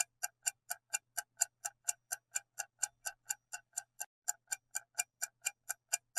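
Steady clock-style ticking, about four to five ticks a second: a countdown-timer sound effect ticking while the quiz waits for the answer.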